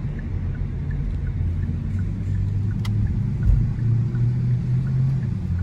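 Car engine and road rumble heard from inside the cabin while driving, a steady low hum that shifts slightly in pitch, with a low thump about three and a half seconds in.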